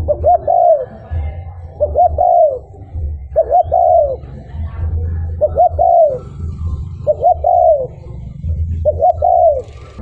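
Spotted dove cooing: six repeated phrases about one and a half seconds apart, each two short notes and then a longer falling coo. This is a decoy call used to draw wild doves in.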